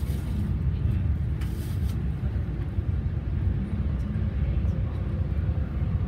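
Running noise heard inside an E4 series Max Shinkansen car: a steady low rumble of wheels and running gear as the train pulls into a station, with a few faint ticks in the second half.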